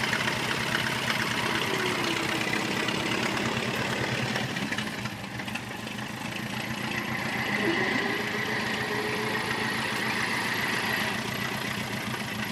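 1926 Ford Model TT's four-cylinder engine running at a steady, even speed, slightly quieter for a moment about five seconds in.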